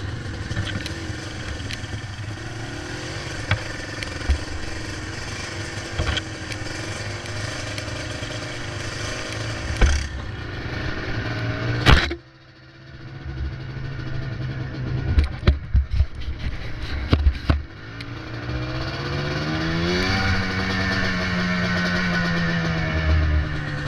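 Yamaha Blaster's single-cylinder two-stroke engine running, with a sharp knock about halfway through and a cluster of rattling knocks shortly after. Near the end the engine revs up, then eases off.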